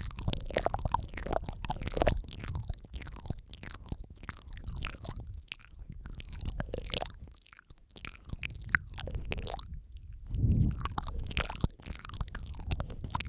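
Close-miked wet mouth sounds: irregular tongue clicks, lip smacks and licking noises, layered over one another with a low rumble underneath. They thin out in the middle and pick up again near the end.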